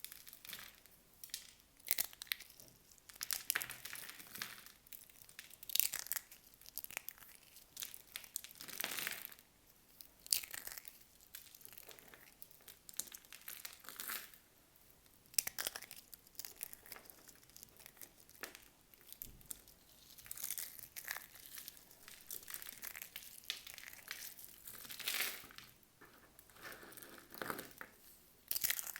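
Soap bars being unwrapped: paper or plastic wrappers crinkling and tearing in irregular bursts.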